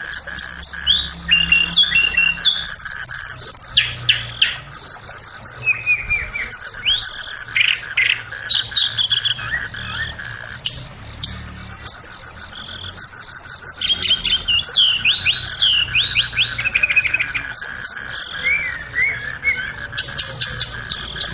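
Blue flycatcher song (tledekan), looped as a lure and training recording: rapid phrases of high, clear whistled notes, many sliding downward, following one another almost without pause.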